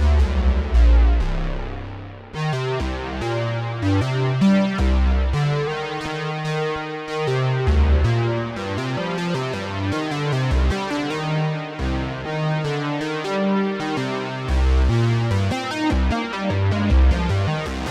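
Behringer Poly D analog synthesizer playing a fast run of short notes over a shifting bass line. The sound dies away briefly about two seconds in, then the run picks up again.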